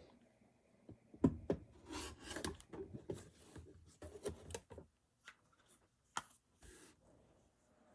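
Rotary cutter trimming fabric on a cutting mat: a run of short rasping cuts and light knocks that stops about six seconds in.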